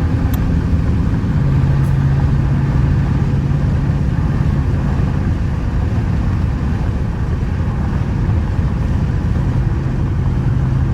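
Straight-piped, catless Dodge Charger R/T's 5.7 HEMI V8 cruising, heard from inside the cabin: a steady low exhaust drone that swells from about a second in for a few seconds, eases off, and swells again near the end.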